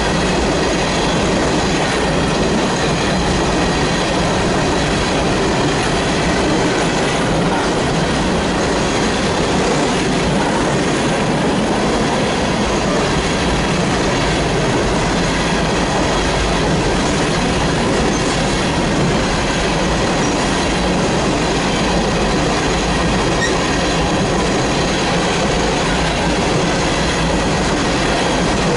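Freight train of coal cars rolling past at close range: a steady, loud rumble of steel wheels on the rails.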